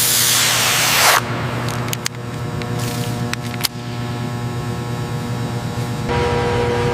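A loud spray-like hiss that cuts off about a second in, then a few sharp clicks over a steady mechanical hum; a stronger, higher humming tone comes in near the end.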